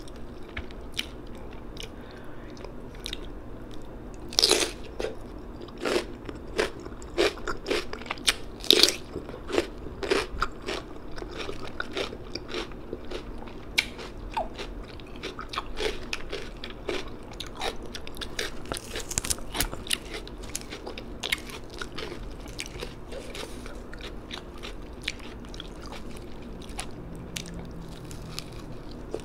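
A person biting and chewing crunchy raw vegetables in the mouth, with irregular sharp crunches. The loudest crunches come about four and a half and nine seconds in.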